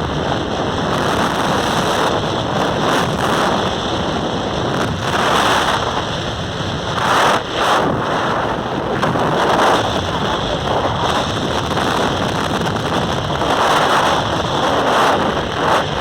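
Wind buffeting the microphone on a moving motorcycle: a loud rushing noise that swells and eases every second or two.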